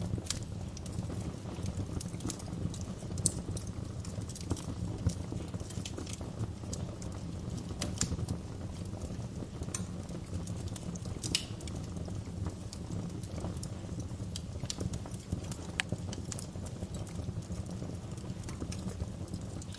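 Wood fire crackling steadily, with a low rumble of the flames under irregular sharp pops and snaps, a few louder ones scattered through.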